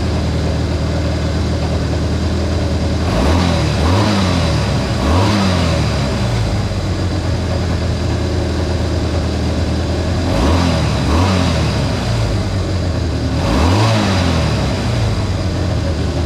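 Honda CA160 Benly's small parallel-twin four-stroke engine idling steadily, blipped up in revs six times in quick groups. It runs pretty good, with the carburettor float level finally set and clogged jets cleared.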